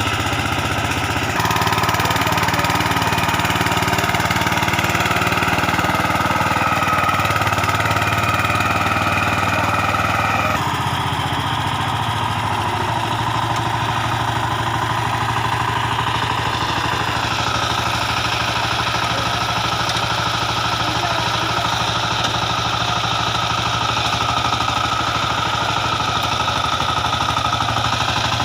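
VST Shakti 130 DI power tiller's single-cylinder diesel engine running steadily. Its note changes a few times as the engine speed shifts: a step up about a second in and a drop about ten seconds in.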